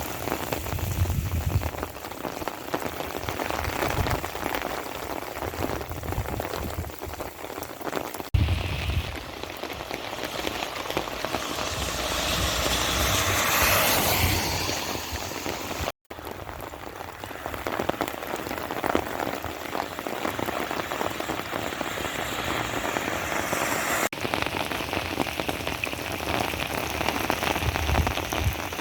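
Steady rain falling and pattering on surfaces, recorded on a cellphone, with a louder swell of whooshing noise about halfway through and a brief dropout just after it.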